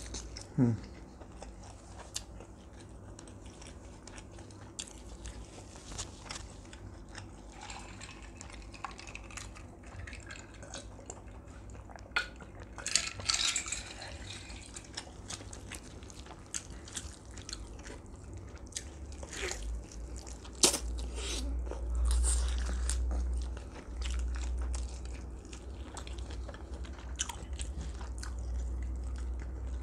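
Close-miked chewing and biting of roast duck: wet mouth clicks and crunches of the crisp skin, scattered through, with a low rumble about two-thirds of the way through.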